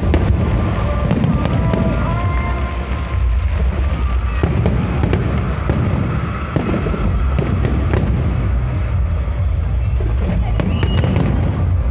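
Aerial fireworks display: a dense run of sharp crackling bursts over a steady low rumble of booms, with music playing underneath.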